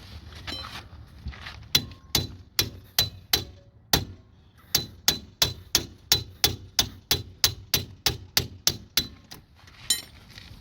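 Hammer striking a hand impact driver about twenty times, mostly about three blows a second, each a sharp metallic clang with a short ring. The blows are breaking loose a rust-seized screw.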